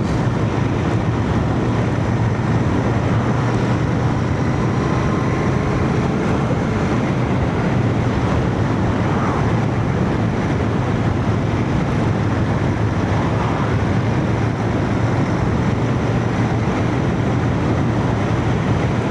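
Royal Enfield Shotgun 650's parallel-twin engine running at a steady cruise, mixed with wind and road noise, heard from a microphone inside a full-face helmet.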